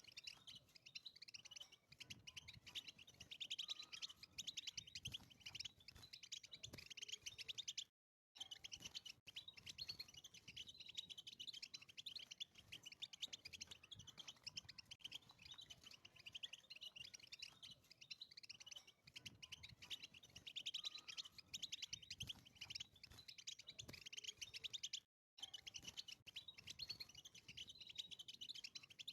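European goldfinch singing a long, rapid twittering song of quick chirps and trills, cutting out briefly twice.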